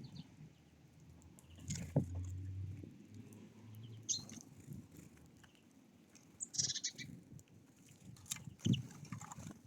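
Small wild birds giving a few short, scattered chirps, with a couple of sharp knocks in between.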